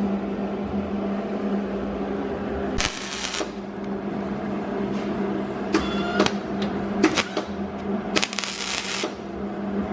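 Welder crackling in two short bursts, about three seconds in and again about eight seconds in, over a steady low hum, with a few sharp clicks between: tack-welding a replacement quarter panel onto the car body.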